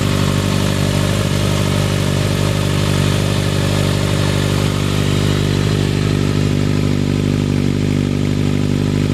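Motorcycle engine idling steadily, at an even pitch that neither rises nor falls.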